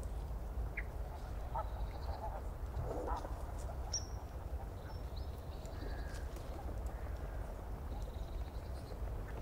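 Scattered short bird calls, with a steady low rumble beneath.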